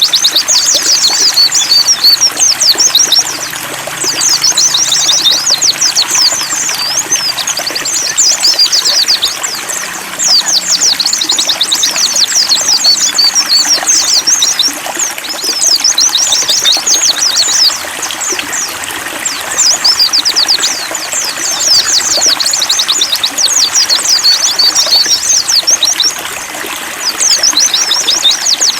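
White-eye (pleci) song: phrases of rapid, high twittering a few seconds long, repeated with short pauses between them. Water trickles steadily underneath.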